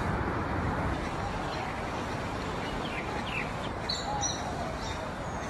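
A few short bird chirps about three to four seconds in, over a steady outdoor background hiss.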